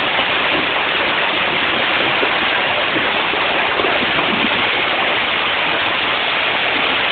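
Muddy floodwater rushing down a street like a waterfall: a loud, steady torrent of storm runoff.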